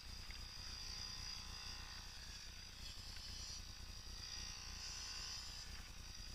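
Faint, steady running of a Yamaha PW50's small two-stroke engine at a distance, with a steady high hiss over it.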